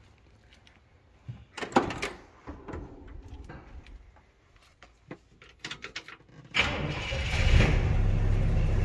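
A few knocks and clicks, then about two-thirds of the way in the 1967 Chevrolet Impala SS's 327 small-block V8 fires right up and settles into a steady run.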